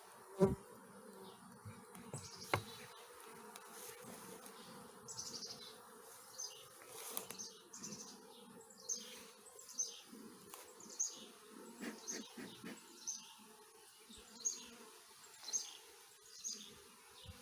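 Honey bees buzzing steadily around an opened hive during an inspection, with a couple of sharp knocks in the first few seconds. From about five seconds in, a short high chirp that falls in pitch repeats roughly once a second.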